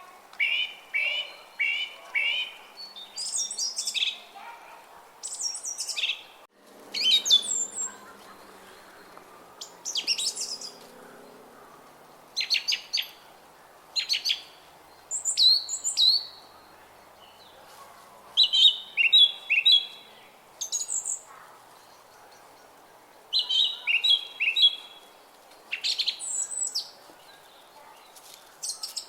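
Songbirds singing in a park: short, high chirping phrases, often three to five quick repeated notes, every second or few, over a faint steady background hiss. The sound drops out briefly about six seconds in.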